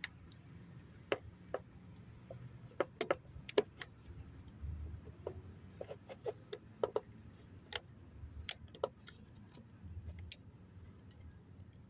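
Scattered, irregular small clicks and scrapes of a hand tool working on a wiring connector's corroded, burnt terminals.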